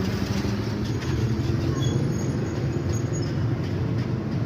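Honda 125 motorcycle engine running steadily, a low rough rumble.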